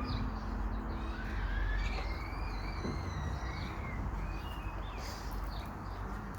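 Birds calling, with several short rising and falling chirps mostly in the first half, over a steady low rushing noise.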